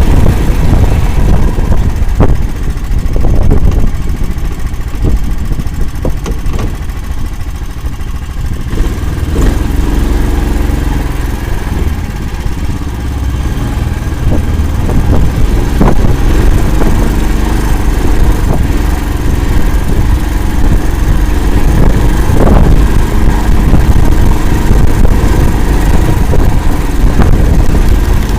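Engine of an 'Akula' all-terrain vehicle running under changing load while driving through swamp, a little quieter for a few seconds early on and then steady, with scattered knocks and clatter.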